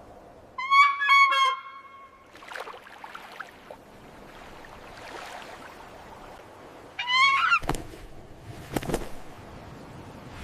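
A large bird calling loudly: three quick, evenly pitched calls about half a second in, and a shorter rising call about seven seconds in, over a faint steady background hiss. A few sharp thumps follow the second call.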